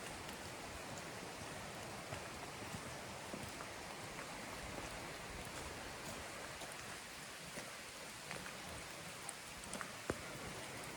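Steady rain falling in the forest, with scattered drops tapping and one sharper tap about ten seconds in.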